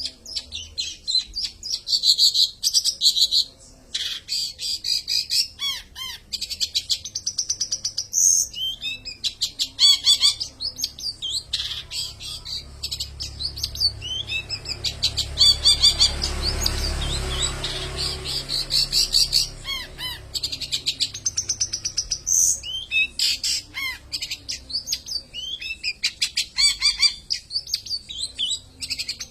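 Long-tailed shrike (cendet) singing a rapid, varied chattering song of quick high notes with short pauses. A low rumble rises and fades partway through.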